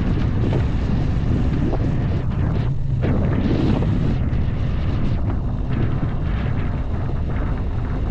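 Dacia Duster driving off-road: a steady low engine and road rumble with frequent short knocks and rattles as it goes over rough ground, plus wind buffeting the microphone.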